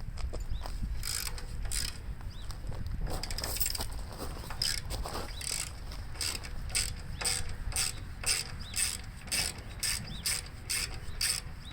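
Socket ratchet clicking as a bolt is turned out: short strokes, a few at first, then a steady run of about two a second that quickens toward the end.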